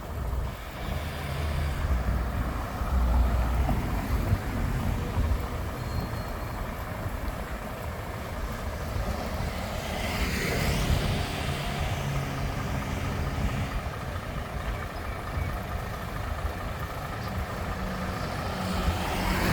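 Road traffic: a steady low rumble of vehicle engines, with one vehicle passing close about halfway through.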